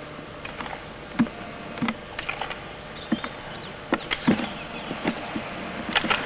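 Off-road roller skis rolling on a rough surface, with a steady low buzz and irregular sharp clicks and knocks.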